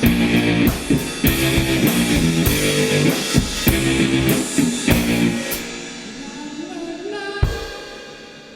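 Rock band with drum kit and guitar playing to the end of a song: the full band stops about five and a half seconds in and rings out, with one last hit near the end that fades away.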